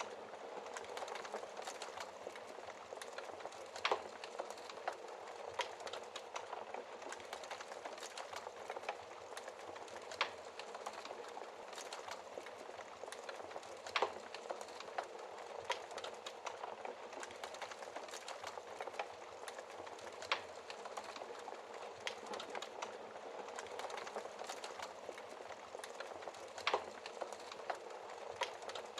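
Wood fire crackling in a fireplace: a steady hiss of burning with frequent small crackles and an occasional sharper pop, the loudest pops a few seconds apart.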